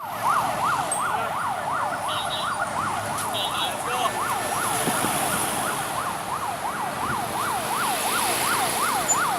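Electronic siren wailing in a fast yelp, its pitch sweeping up and down about three times a second, steady throughout.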